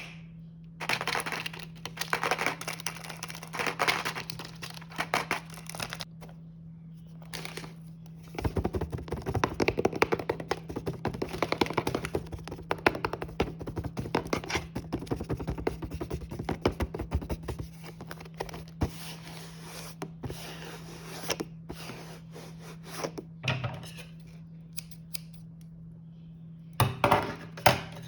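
Snack wrappers being handled and torn open: crinkling, tearing plastic packaging with knocks of items set down, coming in clusters of dense crackle. A steady low hum runs underneath.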